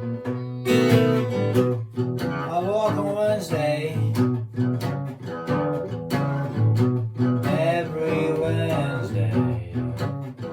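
Fingerpicked blues on an Amrita Custom Guitars F-Model acoustic flattop guitar, with a steady picked bass line under the melody notes.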